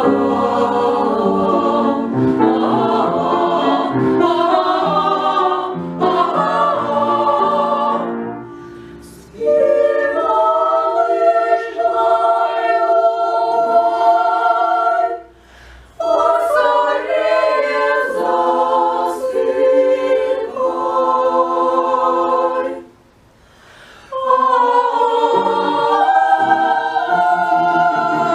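A vocal ensemble singing in harmony, several voices together on sustained lines, with short breaks between phrases about 9, 15 and 23 seconds in.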